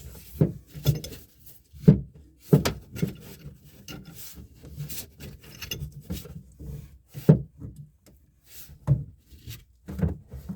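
Wrench on a Teflon-taped threaded drain fitting being turned a little past hand-tight: irregular knocks and clicks with some rubbing and scraping, a few sharper knocks about 2, 7 and 9 seconds in.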